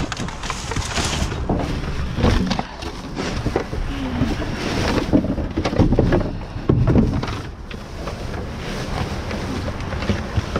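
Rummaging through discarded items: rustling and scattered knocks and clatters of things being moved and handled, over a low rumble of wind buffeting the microphone.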